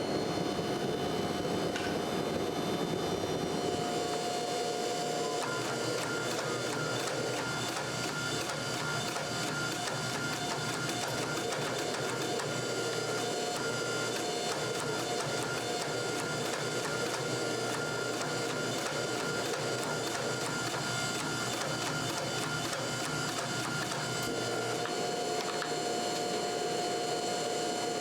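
Steady mechanical running noise with a constant whine and a fast, fine ticking, keeping on without a break.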